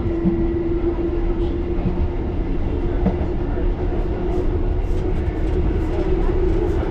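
1938 Tube Stock train running, a steady whine held at one pitch over a low rumble.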